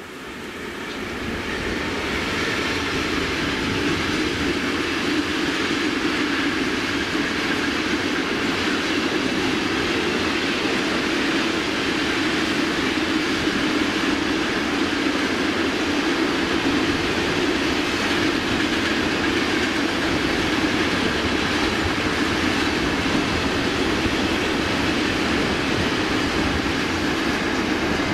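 Freight train of flat wagons passing: a steady rolling rumble of wheels on rails that builds over the first couple of seconds, then holds loud.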